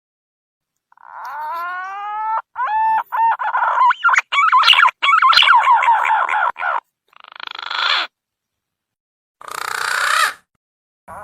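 Green pigeon (punai) lure call: a rising whistled note, a few short stepped whistles and a long run of quick warbling notes, then two short hoarse, breathy bursts. The calls are cut apart by stretches of dead silence.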